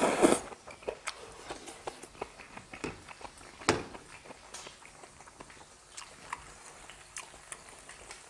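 A short slurp from a bowl, then a person chewing grilled beef gopchang (small intestine) with a string of mouth clicks and smacks, one louder about three and a half seconds in.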